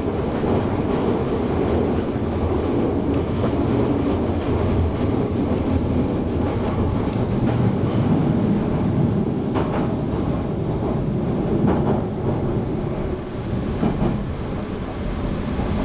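A Meitetsu 3150 series electric train heard from inside the carriage while running. Its wheels give a steady rumble on the rails, with a few clicks as they pass over joints.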